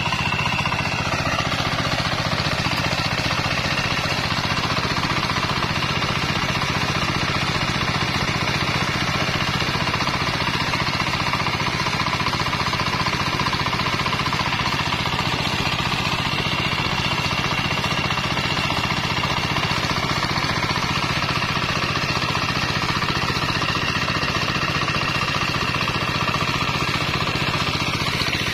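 Kubota 8 HP single-cylinder diesel engine running steadily with a fast, even knock, after a repair that freed its seized piston.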